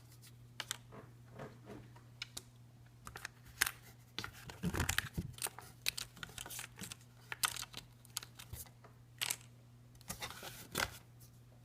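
Small cardboard puzzle pieces and the pages of a board book being handled: irregular light clicks, taps and rustles, busiest around the middle and again near the end, over a faint steady hum.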